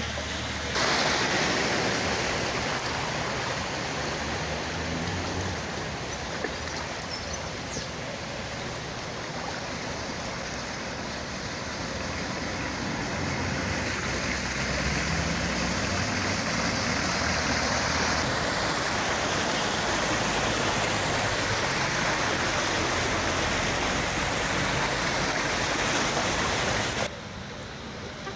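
Rushing floodwater: a steady, loud wash of water noise across several cut-together shots, ending abruptly shortly before the end.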